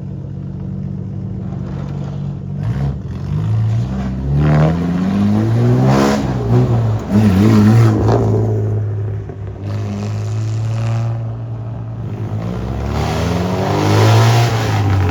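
Classic cars' engines: a steady idle underneath while other cars rev and drive past, their engine notes rising and falling, loudest around seven seconds in and again near the end.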